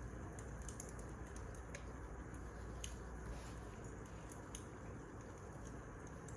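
Scattered soft, sharp clicks and ticks, a few a second at irregular intervals, over a steady low rumble and hiss.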